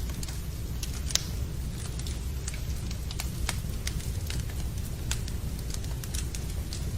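Wood fire crackling in a fireplace: irregular sharp pops and snaps, the loudest about a second in, over a steady low rumble and a soft hiss of rain.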